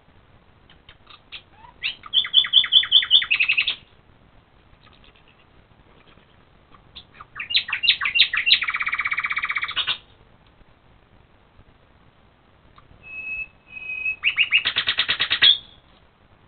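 A songbird singing at night in three short phrases a few seconds apart, each starting with a few separate notes and running into a fast series of repeated notes.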